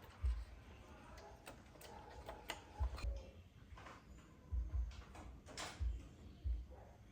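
Irregular clicks and soft low thumps of hands working with tools and small parts, as in bench repair work on an amplifier.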